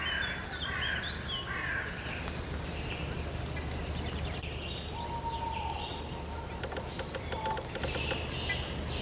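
Night woodland ambience: an insect chirps steadily, about two to three times a second, over a low steady hum. Other animal calls sound over it, with a held whistled note about five seconds in and a rapid rattling call around seven seconds in.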